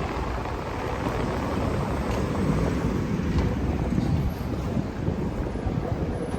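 Steady rumble and hiss of a busy train station.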